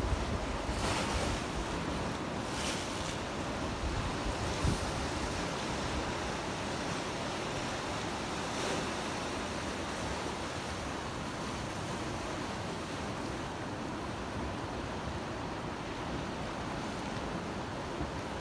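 Sea waves washing in a steady hiss of surf, with a few gusts of wind buffeting the microphone in the first five seconds.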